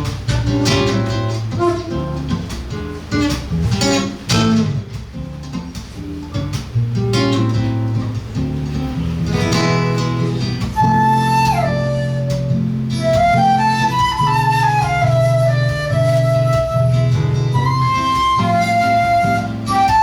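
Live flute and seven-string guitar duo: the guitar plays rhythmic plucked chords alone, and about halfway through a flute melody enters over it, with sliding notes.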